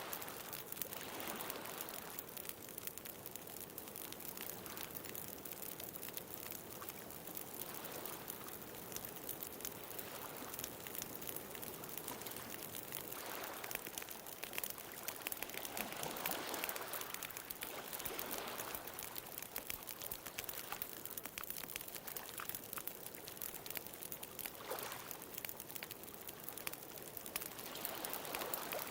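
Bonfire crackling, with many small sharp pops over a steady hiss, while ocean waves break and wash in as slow swells every several seconds.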